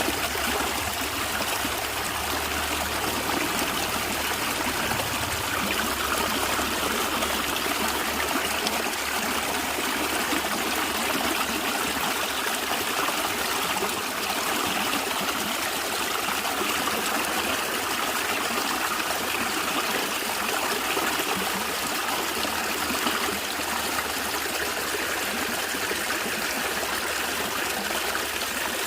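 Stream water flowing and trickling steadily with a continuous gurgling hiss.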